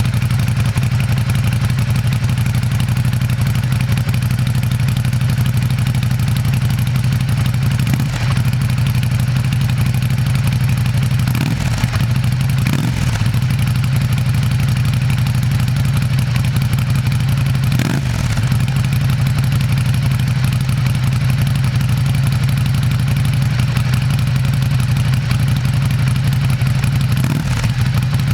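Ducati Desert Sled's air-cooled 803 cc L-twin idling steadily, with a few short, light blips of the throttle that briefly raise the pitch.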